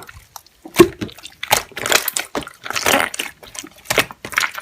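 Hand-played slime squishing, with irregular wet squelches and sticky clicks.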